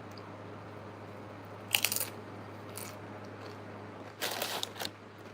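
Close-up crunching bites of food: a sharp crunch about two seconds in, a softer one just before three seconds, and a longer spell of crunching a little after four seconds.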